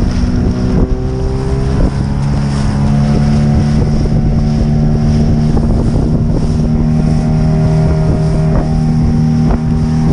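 Motorboat engine revving up about a second in, then running steadily at a higher speed under way.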